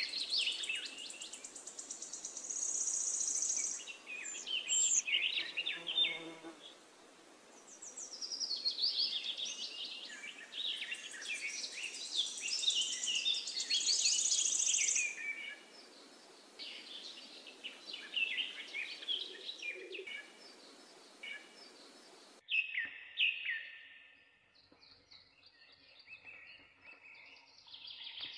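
Outdoor birdsong: many birds chirping and singing in quick gliding calls, with high buzzing trills at times. About three-quarters through, the background hiss cuts out suddenly and fainter chirps continue.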